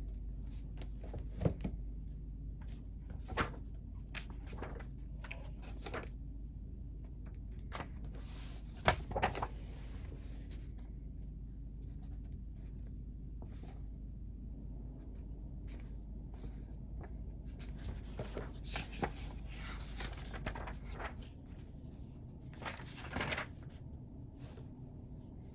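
Scattered small knocks, clicks and rustles of things being handled, over a steady low hum that drops away about 21 seconds in.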